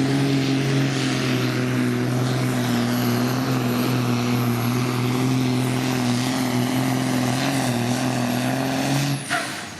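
Supersport pulling truck's engine running hard at steady high revs under load, with a thin high whine above it. About nine seconds in the engine cuts off and the whine drops away quickly.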